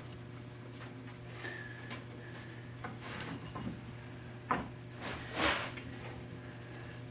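Handling of the wooden toolbox parts during felt lining: a sharp tap about four and a half seconds in, then a brief scraping rustle, over a steady low hum.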